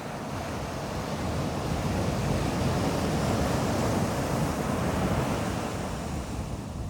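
Ocean waves breaking and washing up a beach, swelling in the middle and easing off near the end, with some wind on the microphone.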